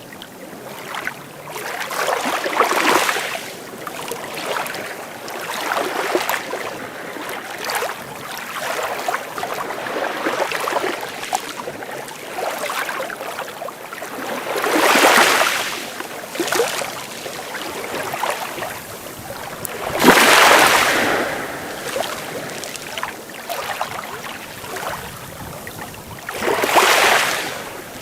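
Sea waves breaking on the shore over a steady wash of water, with bigger waves swelling and crashing about 3, 15, 20 and 27 seconds in; the one about 20 seconds in is the loudest.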